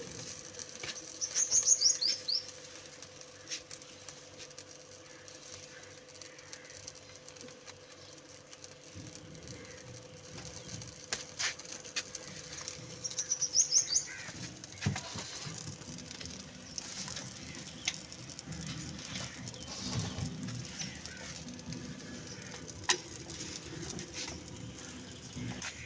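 A small bird chirping in quick runs of high, falling notes, once about two seconds in and again about halfway through, over a faint steady hum.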